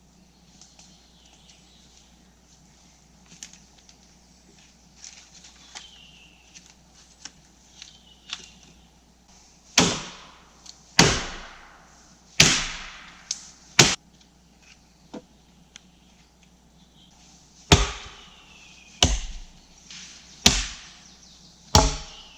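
Wood being chopped with a blade: a series of sharp chopping strokes, about one every second and a bit, in two runs with a pause between them, after some quieter light knocks and crackles.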